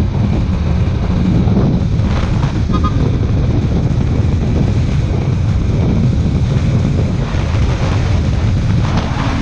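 Steady wind noise buffeting the microphone on a moving Kawasaki Ninja 400, with the bike's parallel-twin engine and modified exhaust running beneath it.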